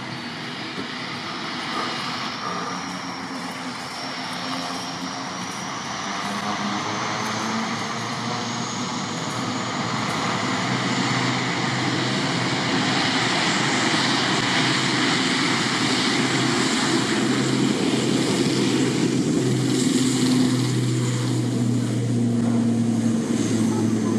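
ATR 72-600's twin Pratt & Whitney PW127M turboprop engines running at high power for takeoff: a steady roar with a low propeller hum and a high turbine whine that rises slightly in pitch early on, growing gradually louder.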